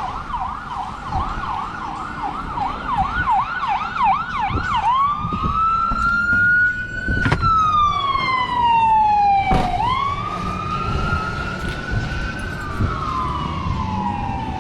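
Emergency vehicle siren in a fast yelp, about three up-and-down sweeps a second. About five seconds in it switches to a slow wail that rises and falls. Low wind rumble underneath.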